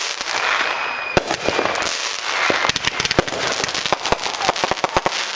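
Fireworks going off: a dense run of bangs and crackling pops. About half a second in, a short steady whistle ends in a bang.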